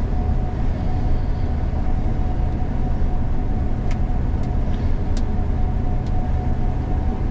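Gleaner combine harvester running steadily while harvesting soybeans: a dense low drone with a steady whine over it and a few faint ticks a little past the middle.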